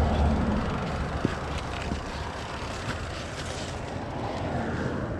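Mountain bike rolling down a dirt trail: a steady low rumble of tyres and wind on the camera microphone, with scattered rattles and a sharp knock just over a second in.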